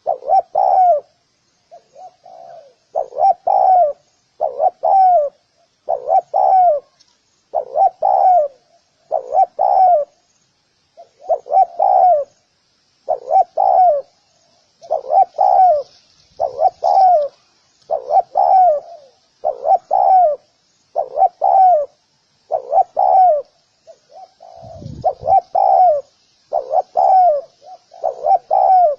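Spotted dove cooing, its short phrase repeated over and over at a little more than one a second, with a faint high hiss in the background.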